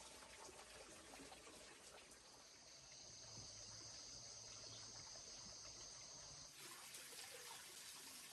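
Near silence: a faint steady hiss, with a high steady whine from about two seconds in that cuts off abruptly a little past the middle.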